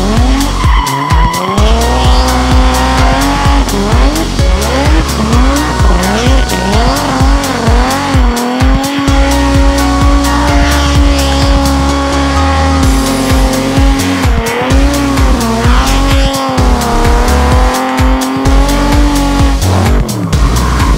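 A drift car's engine revving up and down through a slide, with tyres squealing, mixed with background music that has a steady beat.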